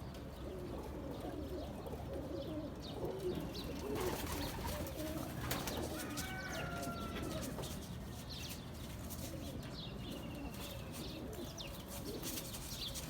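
Domestic pigeons cooing in overlapping, wavering low calls, with a few higher chirps from other small birds.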